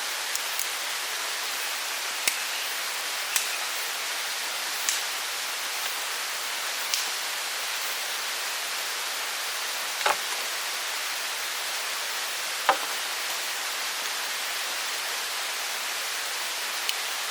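Steady rushing of a forest stream, with a few short sharp clicks and snaps scattered through it, the loudest about three-quarters of the way through.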